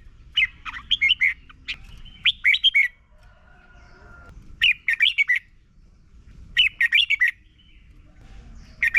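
Red-whiskered bulbul singing: short phrases of quick, warbled whistled notes, four phrases with pauses of about a second between them, and a fifth phrase starting right at the end.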